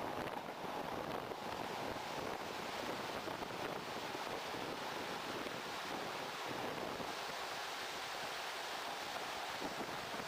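Steady rush of wind and running noise from a moving diesel passenger train, heard from an open window.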